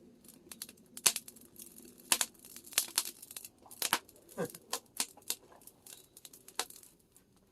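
Fermented tea leaves crackling and popping as they are pan-roasted in a hot cast-iron cauldron: irregular sharp crackles, a few louder pops among them.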